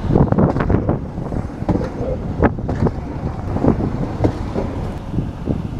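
Bzmot diesel railcar rolling slowly past at close range as it pulls in, a steady low engine-and-wheel rumble broken by irregular knocks and clatter from the running gear on the rails.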